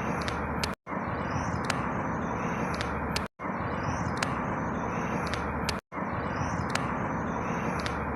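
A short outdoor ambience recording, a steady rushing noise with faint high chirps over it, looped about every two and a half seconds, with a brief dropout to silence at each join.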